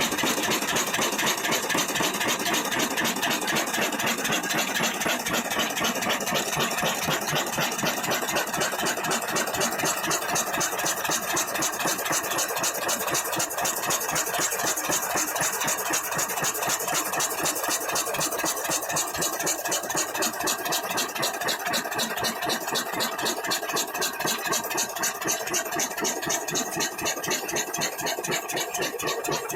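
Old Ruston & Hornsby stationary diesel engine running steadily, a fast, even clatter of strokes.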